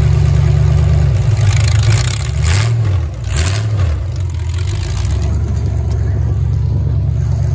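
The 350 Chevy V8 in a 1978 Ford LTD derby car running at a steady rumble, revved twice in quick succession about two and a half seconds in, each rev rising and falling, as the car pulls away.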